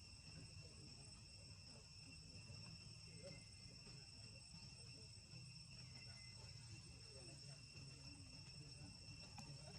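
Faint, steady high-pitched insect trill, with a low rumble underneath.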